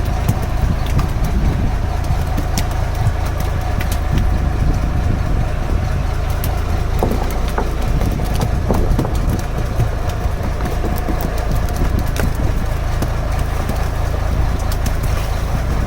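A fishing boat's engine idling steadily, a constant low drone, with scattered light clicks over it.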